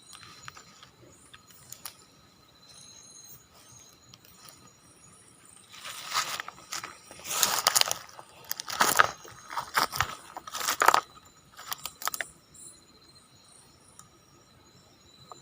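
Irregular crunching and rustling for about five seconds in the middle, over faint, steady, pulsing insect chirping.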